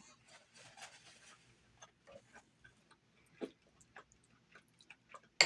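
Close-miked chewing with irregular mouth clicks and lip smacks, a soft hiss in the first second or so, and a sharper smack at the very end.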